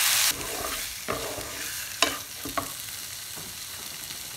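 Raw chicken pieces being stirred into oil with fried shallots, crushed dried chilli and curry leaves in a hot pan. The frying sizzles steadily, a louder sizzle drops away suddenly about a third of a second in, and the stirring utensil knocks against the pan a few times.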